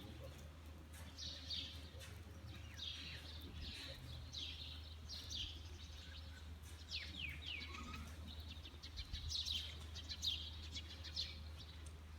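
Small birds chirping repeatedly, many short chirps that sweep downward in pitch, some in quick runs, over a steady low hum.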